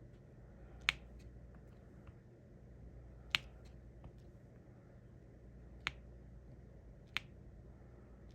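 Sharp plastic clicks and taps of a diamond painting pen setting resin drills onto the sticky canvas. About five loud clicks come a second or two apart, with fainter ticks between them.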